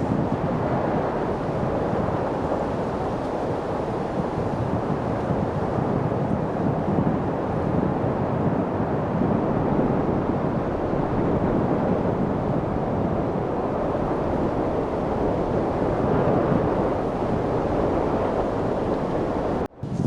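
Light wind: a steady wash of noise with gentle swells, which drops out for a split second near the end.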